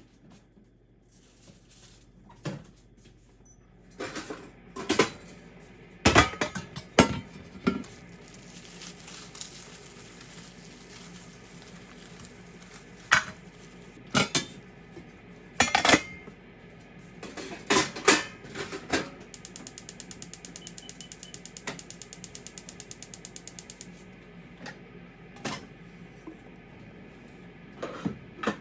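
Kitchen prep sounds: scattered knocks and clatters of utensils and dishes. A run of rapid, evenly spaced mechanical clicks starts about two-thirds of the way in and lasts about four seconds.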